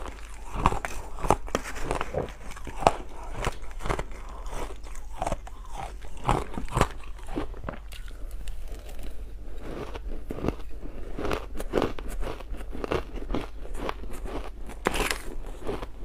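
Ice being bitten and crunched between the teeth, close to the microphone: a rapid run of sharp cracks, with a short lull about halfway.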